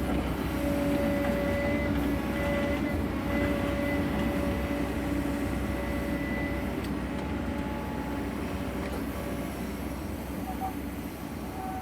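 Sany excavator running steadily, its engine noise carrying a steady whine that drops in and out.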